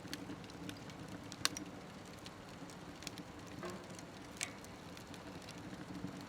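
Wood fire burning in a smokeless wood stove: a steady low rush of flame with scattered crackles, and a sharp pop about a second and a half in and another a little after four seconds.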